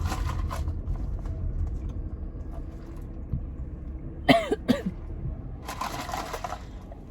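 A woman coughing and sputtering after choking on a sip of latte: two sharp coughs a little past halfway, then a longer rasping cough, over the low rumble of a car interior.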